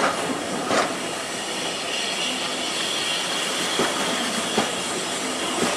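Railway carriages rolling past close by at speed, their wheels clicking over a rail joint in pairs of beats about a second apart, over a steady rumble of the train, with a faint high ring from the wheels in the middle.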